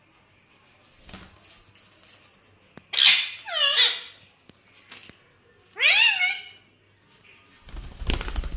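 Three loud, drawn-out, meow-like animal calls, each falling in pitch, about three, three and a half and six seconds in. A rustling, scuffling noise follows near the end.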